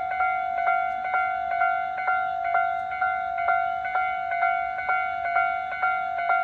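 Railway level-crossing warning bell ringing: a steady electronic ding struck over and over, about two strikes a second.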